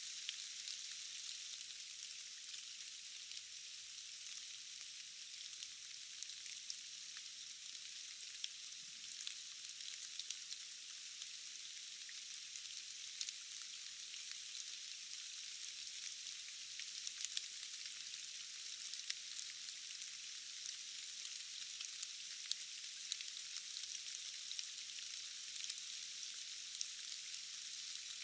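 Steady rain, an even high hiss with many scattered sharp ticks of single drops and nothing deep in it.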